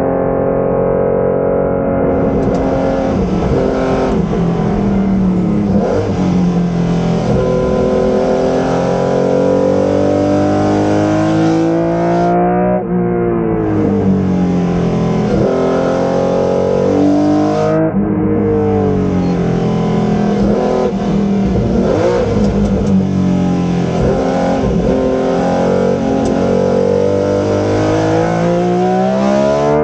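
1981 BMW M1 IMSA race car's inline-six engine at full throttle, its pitch repeatedly climbing through the revs and dropping sharply, twice in the middle, as it changes gear and lifts off between bursts of acceleration.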